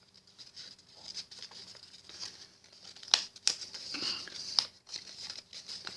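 Sheet of paper being handled and folded by hand: faint rustling and crinkling, with a few sharp crackles.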